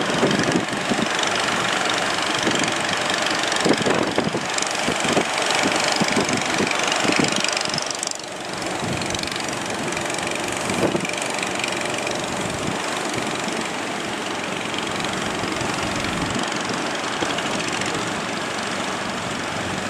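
Fishing boat engine running under a steady rush of wind and surf.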